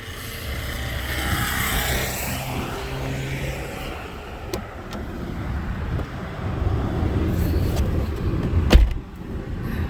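Road traffic going by: a car passes, swelling and fading over the first few seconds, with a steady low rumble and more traffic later. A sharp knock with a low thump sounds near the end.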